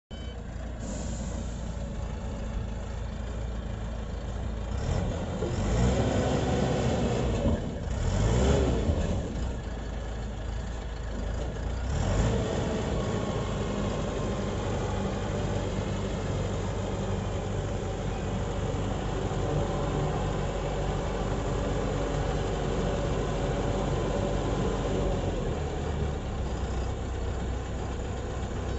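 Self-loading concrete mixer truck's diesel engine running, with the revs rising in a couple of louder swells in the first half, then running steadily.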